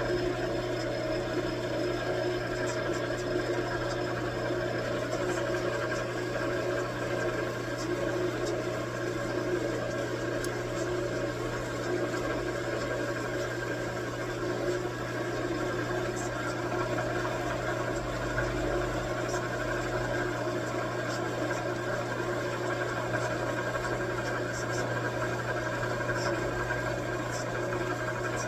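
Metal lathe running steadily, a constant machine hum with several steady tones and a few faint ticks scattered through.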